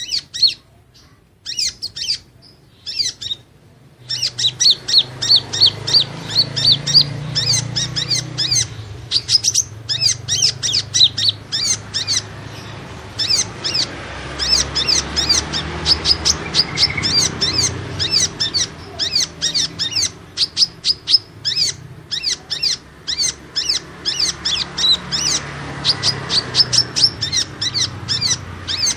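Kolibri ninja sunbird calling: a rapid string of high, sharp chirps, about five a second, sparse for the first few seconds and then nearly continuous. A lure call used to draw the birds in.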